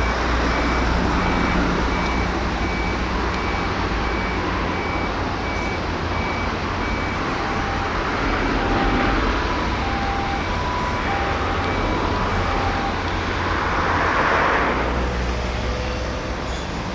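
Steady rumble of traffic and machinery with electronic warning beeps. A high beep repeats about once every 0.7 seconds for the first several seconds, then a lower beep alternating between two pitches takes over until near the end. A short swell of hiss comes about three seconds before the end.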